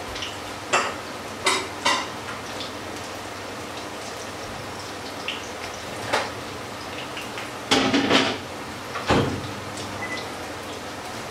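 Potato pancakes frying in a pan of hot oil, a steady sizzle. Several sharp clicks and knocks sound over it, with a loud cluster about eight seconds in.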